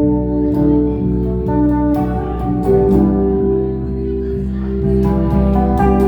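Band music from a jam: guitar over sustained bass and chord notes, with occasional sharp cymbal-like strokes.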